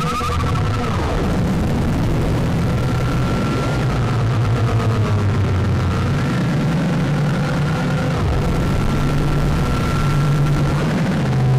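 Soma Lyra-8 analog synthesizer holding a steady drone: several low held tones with a thin high tone above that slides in pitch now and then, over a rough hiss.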